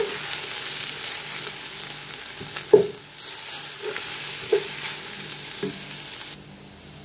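Shredded boiled chicken and green onion whites sizzling in oil in a metal pot, stirred with a wooden spoon that knocks against the pot a few times, loudest about three seconds in. The sizzle drops away sharply near the end.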